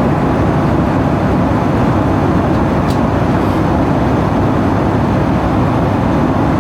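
Steady cabin noise of a Boeing 757-200 in flight, the even rush of its engines and the air streaming past the fuselage heard from a passenger seat, with a faint click about three seconds in.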